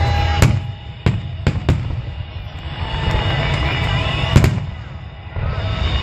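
Aerial fireworks going off: a run of sharp bangs with low booming, the loudest about two-thirds of the way through, over music in the background.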